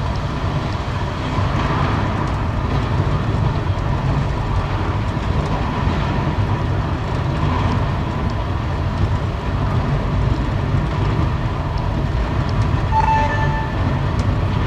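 Passenger train carriage running at speed, heard from inside the coach: a steady rumble of wheels on the track and car body.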